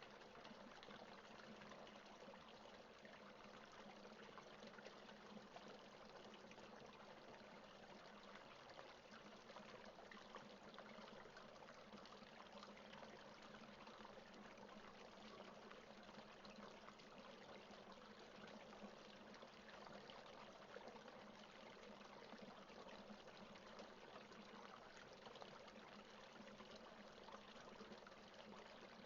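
Steady rain falling, with no thunder: a quiet, even hiss of many drops that does not change.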